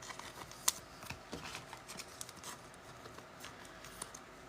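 Faint handling of trading cards and packs: scattered light clicks and soft rustling, with one sharper click a little under a second in.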